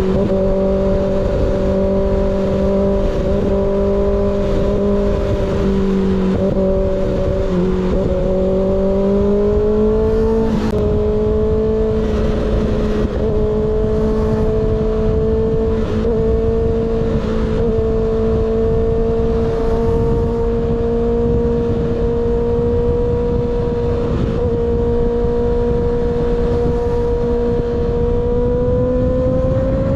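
Sport motorcycle with an unbaffled slip-on exhaust running at steady high revs, with heavy wind rush on the helmet-mounted microphone. The engine pitch steps up a little about eight to ten seconds in, holds, and climbs again near the end as the bike accelerates.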